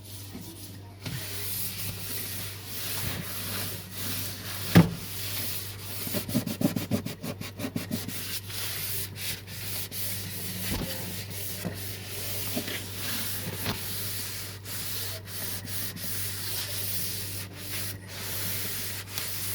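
Cloth wiping and rubbing over fridge shelves and surfaces in a run of strokes, with a single knock about five seconds in.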